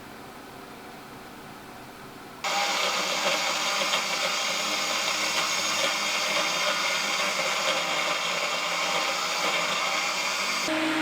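A faint hum, then about two seconds in a loud, steady machine whir switches on abruptly and keeps running, its tone changing near the end.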